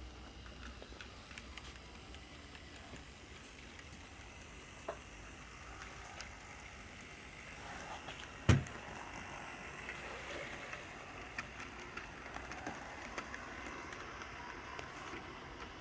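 Rivarossi model steam locomotive running on its track: a faint low motor hum with scattered light clicks, and one sharp knock about eight and a half seconds in.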